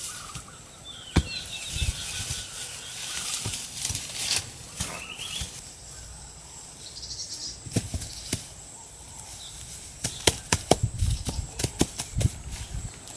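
Sharp knocks and taps, scattered at first and then a quick run of them about ten seconds in, with a few short chirps.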